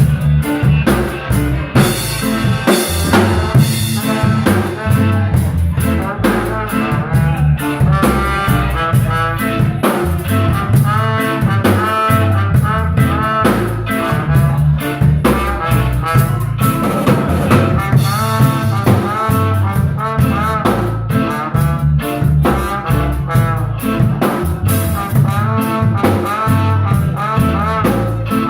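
A live instrumental band plays a tune, with drum kit and bass keeping a steady beat under a wavering lead melody.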